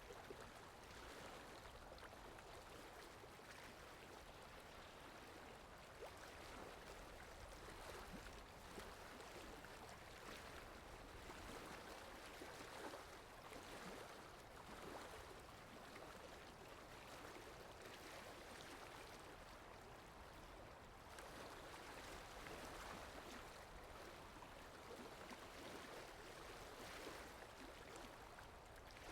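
Faint steady rain ambience: an even hiss of rainfall with many small scattered drop ticks.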